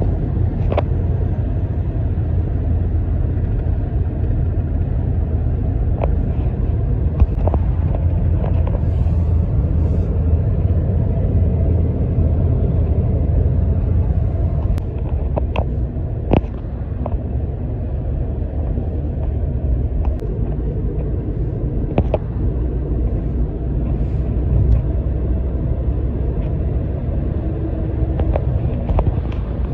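Steady low rumble of a vehicle driving along the road, with a few brief clicks and knocks scattered through it.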